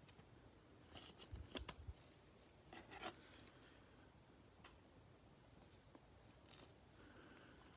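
Near silence broken by a few faint clicks and soft rustles, a cluster about a second in and another near three seconds: trading cards and their packaging being handled.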